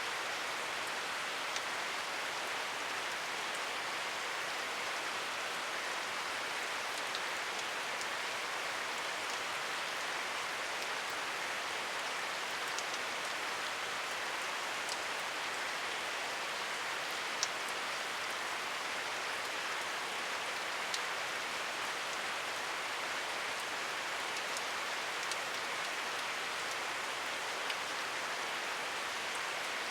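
Steady rainfall: an even hiss of rain, with single louder drops ticking every second or two.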